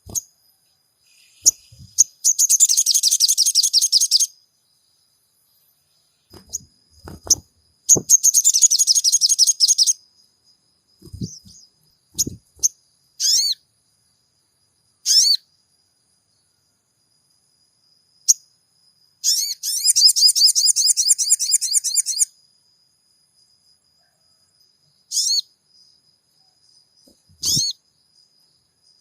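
Crimson sunbird (sogon) singing: three bursts of rapid, very high-pitched twittering trills of about two to three seconds each, with short sharp single chirps in between. A few soft low knocks are heard among them.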